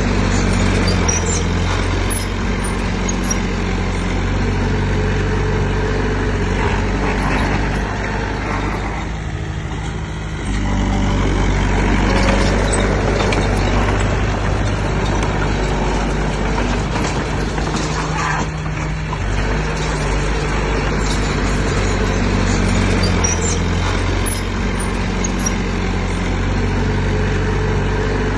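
A heavy earthmoving machine's diesel engine running hard and steady. It eases briefly about nine seconds in, then picks back up about ten seconds in.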